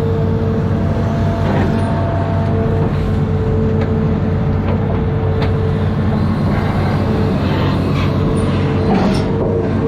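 Amphibious excavator's diesel engine running steadily at working speed, with a mid-pitched tone that cuts in and out and a few scattered knocks.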